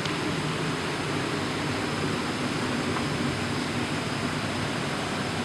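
Steady rushing air of a parked Boeing 737's cabin air conditioning, with a low constant hum underneath.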